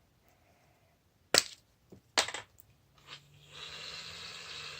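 Two sharp clicks, then, near the end, an aerosol can of shaving cream hissing steadily as the foam is sprayed out.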